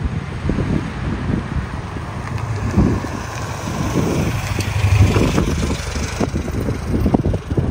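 A classic car's engine running as it drives up, getting louder toward the middle, with wind buffeting the microphone.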